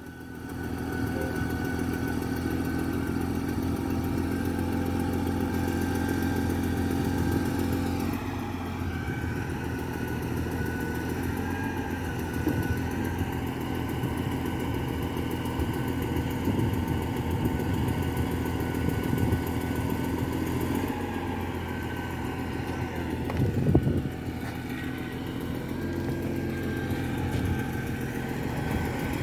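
Diesel engine of a concrete pump truck running steadily, its pitch shifting about eight seconds in, with one short louder knock about three-quarters of the way through.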